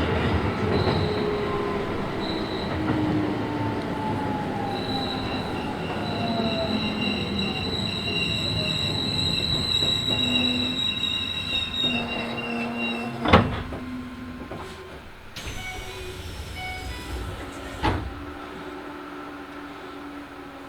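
Keisei 3000 series electric train with Toyo IGBT-VVVF drive, heard from inside the car as it brakes into a station. The motor and inverter whine falls steadily in pitch as the train slows, with a high brake squeal. Running noise fades out about 12 to 13 seconds in, with a sharp thud as it comes to rest, then another thud about five seconds later over a quiet steady hum.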